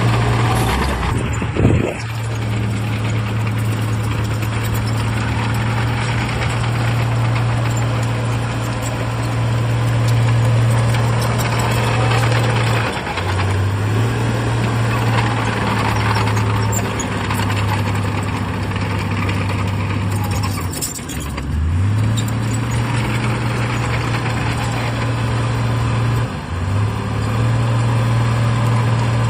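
Heavy diesel engine of earthmoving equipment running steadily, its pitch dipping briefly and recovering three times, with a short sharp sound near the start.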